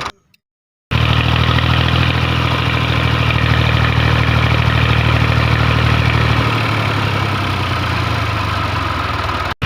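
Small mini-tractor engine running steadily at idle. It starts abruptly about a second in, after a brief silence, and cuts off just before the end.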